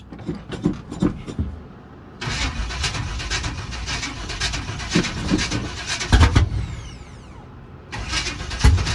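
Chevy C10 truck engine with open headers being cranked over by the starter in two attempts, with rapid even chugging and a few loud low pops, but not catching. The battery needs charging.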